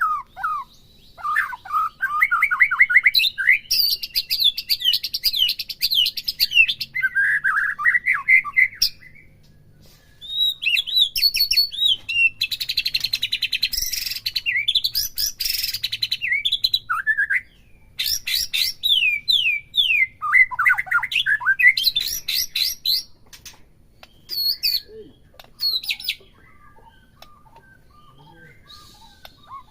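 White-rumped shama (murai batu) singing loud, fast, varied phrases of rapid chirps and whistles, with brief breaks about a third and two-thirds of the way through. Near the end it drops to faint, evenly repeated chirps.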